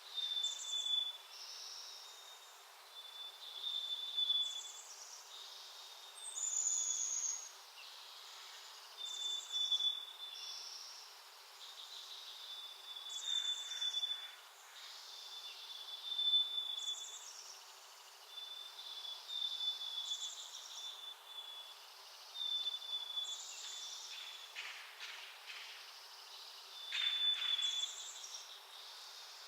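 Small songbirds calling at a backyard feeder: a short high chirp repeated every second or two, with brighter, higher chirps in between and one falling note about six seconds in.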